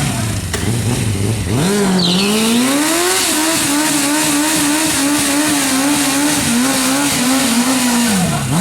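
Sport motorcycle engine revved up from idle, climbing steeply to high revs over about two seconds, held there with a slight wavering for about five seconds, then dropping sharply near the end.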